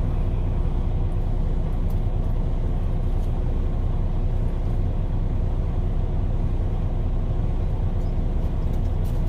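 Steady low rumble of a parked semi truck's diesel engine idling, even in level throughout.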